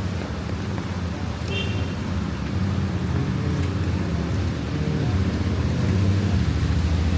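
A motor vehicle's engine running close by, with a low, steady hum that grows louder toward the end as it draws nearer.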